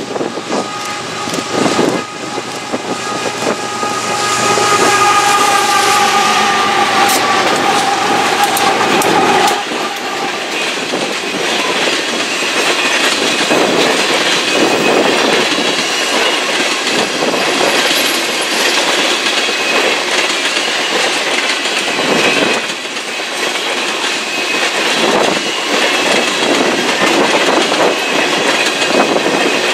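Freight train passing: the diesel locomotives come closer with a steady tone over the engine rumble, which breaks off about a third of the way in. A long string of tank cars then rolls past close by, wheels clattering over the rail joints with occasional faint squeals.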